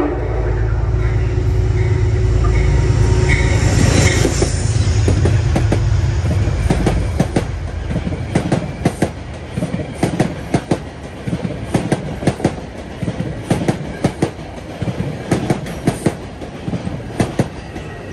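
A train passing close by. A loud, low rumble fills the first six or seven seconds, then a long run of sharp clicks follows as the wheels cross the rail joints.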